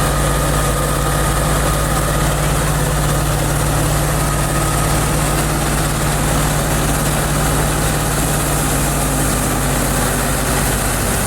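Fiat 640 tractor's diesel engine running steadily at an even speed, a deep, constant drone with no change in pitch.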